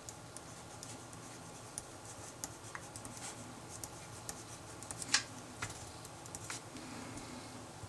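Writing by hand on paper: irregular short scratchy strokes and light taps, the loudest about five seconds in.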